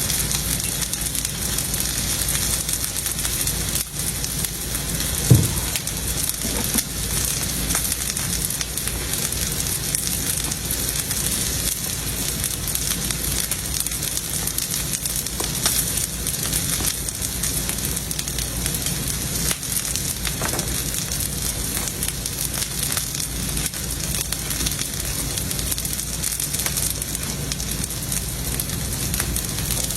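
Filet steak sizzling steadily as it sears on a very hot griddle, with one short knock about five seconds in.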